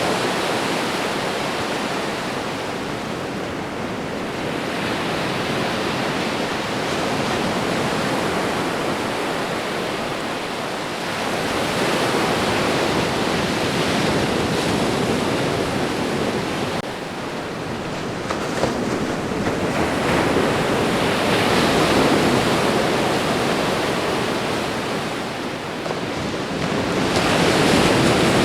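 Ocean waves breaking and washing onto a shore: a continuous rush of surf that swells and eases every few seconds.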